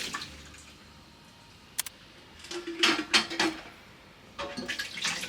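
Dishes and utensils being handled: a few short clusters of clinks and knocks, one with a brief ringing tone, separated by quiet.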